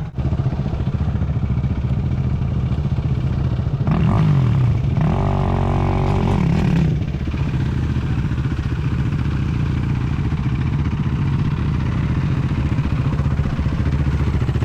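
A single-cylinder 450cc sport quad engine running. About four seconds in it revs up, holds higher and louder for a few seconds, then drops back to a steady run.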